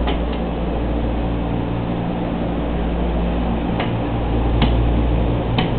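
Flood-drying equipment running: a steady hum with a rush of air, with a few faint clicks in the second half.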